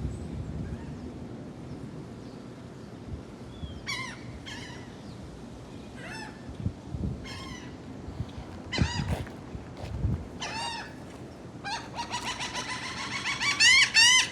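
Seagulls calling: scattered single squawks at first, then a fast, louder run of repeated calls near the end.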